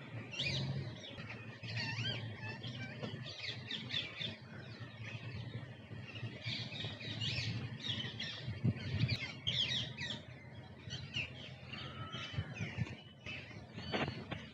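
Many birds chirping and calling at once in a dense run of short, high chirps and whistles, with one louder call near the end.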